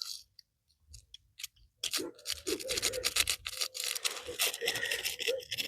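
Close handling of stiff copper wire in a plastic electrical plug connector: small clicks and scratches, sparse at first, then a rapid, irregular run from about two seconds in as the neutral wire is worked down into its terminal.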